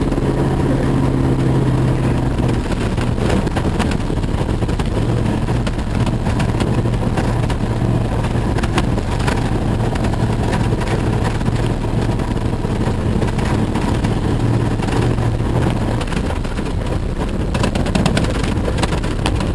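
Jeep engine running steadily under way, heard inside the cab, with tyre and road noise over a rough dirt road and scattered rattles and knocks.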